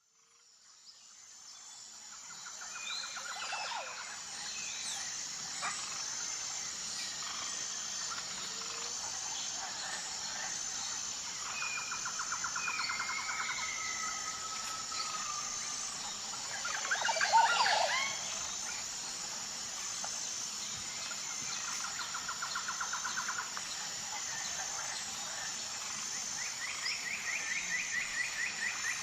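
Outdoor bird ambience fading in: several birds calling over a steady high-pitched hum, with rapid trilled calls repeated a few times, a couple of gliding whistles, and one loud harsh call, likely the parrot, about seventeen seconds in.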